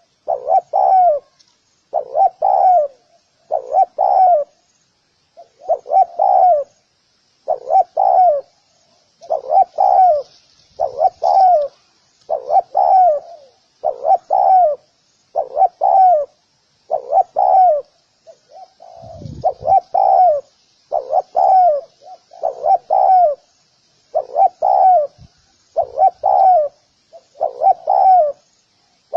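Spotted dove cooing over and over, a short phrase of a few notes repeated about every one and a half seconds. A faint steady high hiss lies behind it, and a brief low rumble comes just after halfway.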